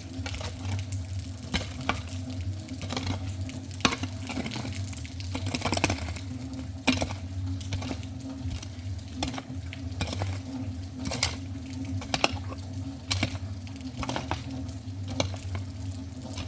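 Rain pattering steadily, with irregular sharp drops tapping throughout, over a steady low hum.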